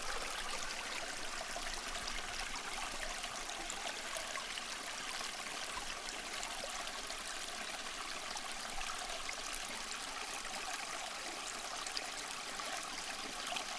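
Water trickling and splashing steadily from a small tabletop waterfall fountain.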